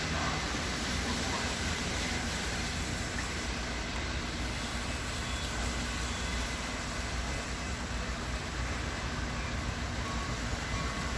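Steady rain falling, an even hiss, with a low steady rumble underneath.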